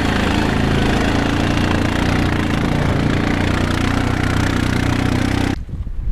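An engine running steadily close by, with a low, even hum; it cuts off suddenly near the end.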